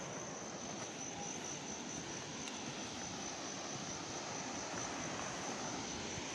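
Steady high-pitched drone of insects, held on one tone, over a steady even rush of outdoor background noise.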